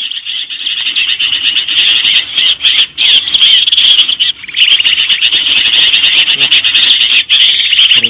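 Recorded bird calls played loud through a small speaker as a lure for birdlime trapping: rapid, high-pitched chirping repeated almost without a break.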